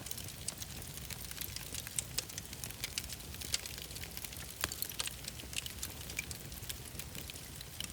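Wood fire crackling in a fireplace: frequent small snaps and pops, a few sharper, over a steady low rumble of the flames.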